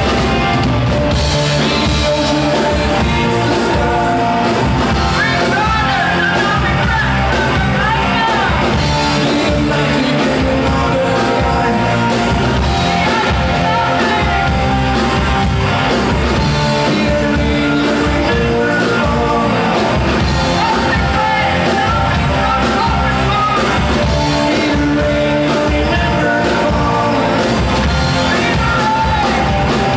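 A rock band playing live at full volume: electric guitars and drums, with a voice singing and shouting over them.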